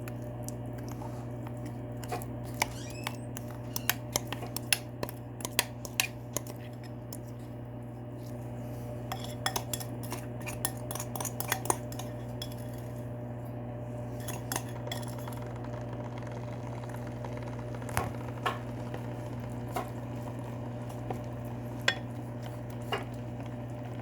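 Metal utensils clinking and knocking against bowls and a pot in scattered, irregular clicks as seasoning sauce is added to the braised pollock, over a steady low hum.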